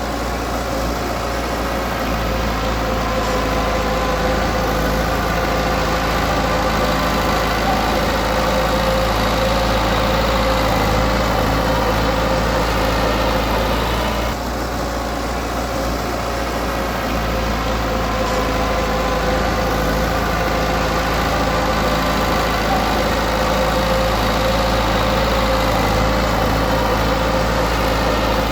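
Diesel engine of heavy earthmoving equipment running steadily, with a short drop in level about halfway through.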